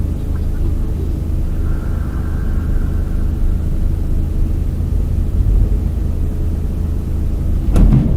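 A heavy vehicle's engine running steadily, with a sharp bang near the end.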